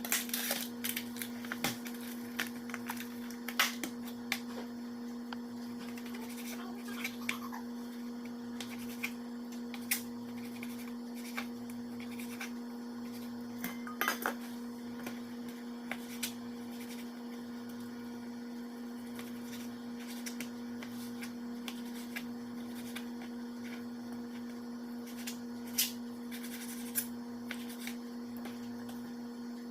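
Steady electrical hum of a kitchen appliance, with scattered light clinks and knocks of dishes and utensils being handled during food preparation.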